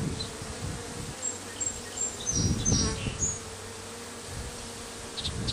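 Honeybees buzzing steadily around an open hive during a frame-by-frame inspection. Handling noise rises briefly a little past halfway, with a few faint high chirps.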